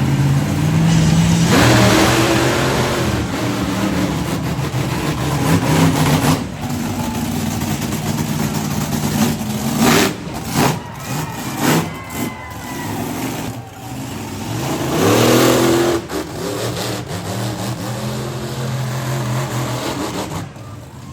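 A monster truck engine revs hard and repeatedly, its pitch climbing and falling. A quick cluster of sharp bangs comes about ten to twelve seconds in.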